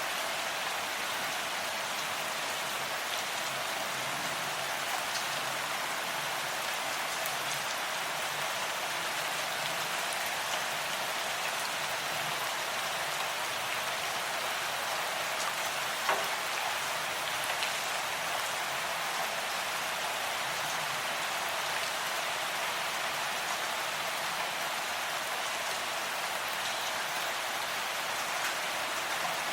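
Steady rain falling: an even hiss with scattered drop ticks and one slightly louder drip about halfway through.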